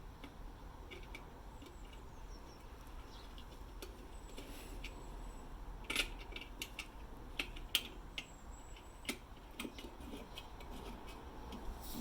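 Scattered small metallic clicks and taps, the loudest about halfway through, over a faint low hum, with a faint high chirp every few seconds; no engine is running.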